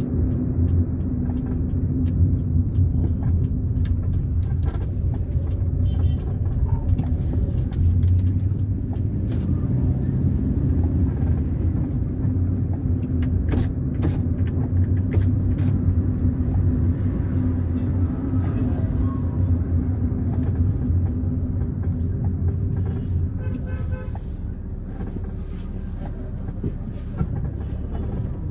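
Car driving on a road: a steady engine and tyre drone with frequent small knocks and rattles from the road surface. The drone eases off a little near the end.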